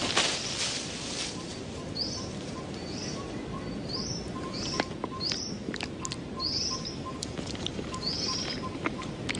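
Songbird chirping: short, high, falling notes repeated every half second or so, over a faint regular run of lower pips and a steady outdoor background. A brief rush of noise sounds at the very start.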